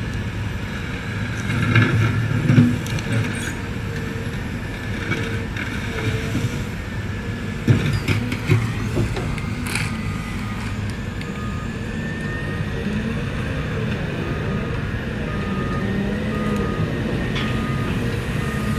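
Cat M322F wheeled excavator's diesel engine running steadily under work, with a few knocks and clanks in the first half. From about halfway through, a backup alarm beeps at about one beep a second.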